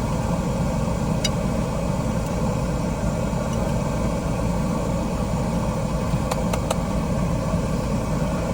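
Steady low rumble and hiss inside a car, unchanging, with a few faint light clicks about a second in and again near six seconds.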